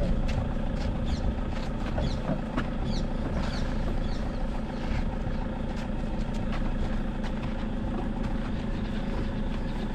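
Vehicle engine idling steadily, with a few faint knocks as luggage is loaded into the car's boot.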